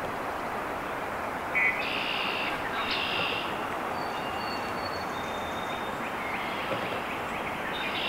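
Birds calling: a few short harsh notes in the first few seconds and again near the end, and two thin high whistles in the middle, over a steady rushing background noise.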